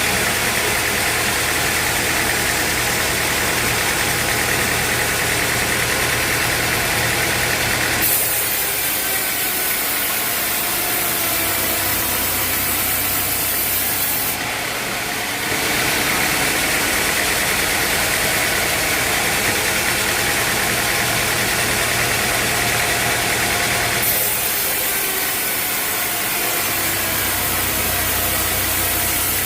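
Sawmill machinery running steadily with a drone like an engine's, the sound changing abruptly several times as one stretch of running gives way to another.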